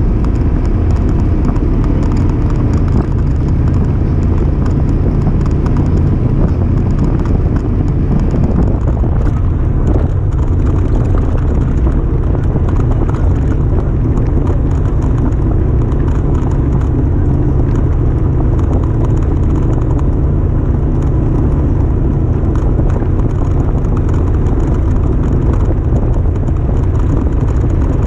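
Polaris RZR 1000 Highlifter side-by-side's engine running steadily while under way, a loud even drone with no big changes in revs.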